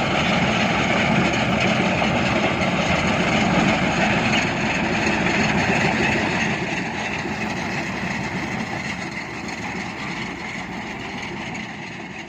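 Heavy construction machinery running with a dense, steady mechanical din, growing gradually quieter over the second half.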